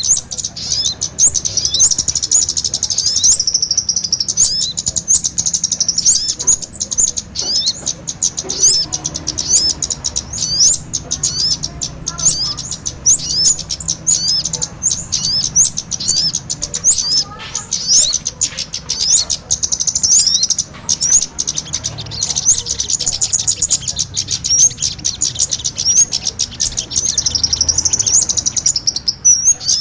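Bird-luring recording of kemade and sogon ontong calls: a dense, continuous stream of rapid high-pitched chirps and short trills, several calls overlapping at once.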